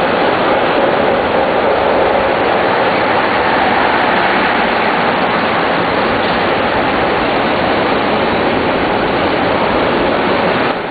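Blue sleeper coaches of the Fuji sleeper limited express rolling along the platform: a steady noise of wheels on the rails, with no clicks or horn standing out.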